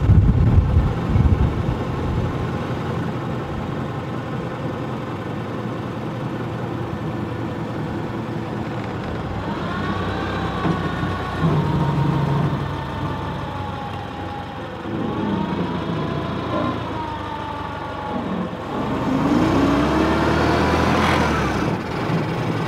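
A 1922 Ford Model T fire truck's four-cylinder engine running as the truck drives along, with a whine that rises in pitch three times as it picks up speed.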